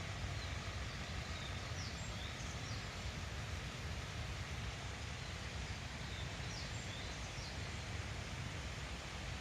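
Steady rushing outdoor background noise with faint high bird chirps, a few about two seconds in and again around the seven-second mark.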